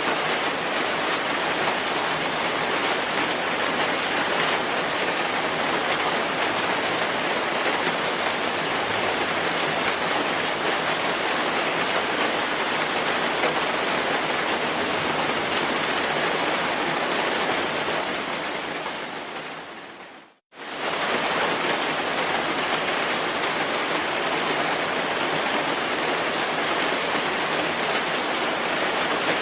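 Steady heavy rainfall: an even, full hiss of rain. About two-thirds of the way through it fades out over a couple of seconds to a moment of silence, then returns at once at the same level.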